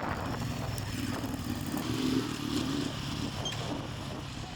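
Motorcycle engine running at low revs, a little louder about two seconds in.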